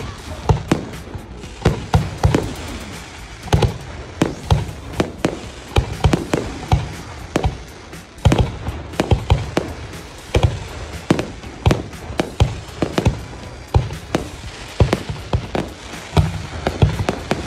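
Fireworks display: aerial shells bursting in a rapid, irregular series of sharp bangs and crackles, several a second.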